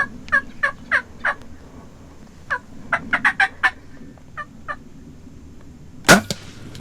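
Osceola wild turkey gobblers gobbling in two quick runs of rattling notes, falling in pitch. About six seconds in comes the loudest sound, the sharp crack of a crossbow shot.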